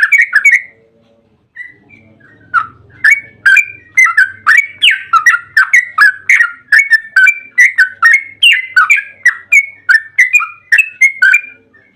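Yellow-vented bulbul (trucukan) singing. A fast run of notes ends in the first half-second, and after a short pause comes a long string of loud repeated whistled notes, about three a second, each dipping and rising in pitch. The string stops just before the end.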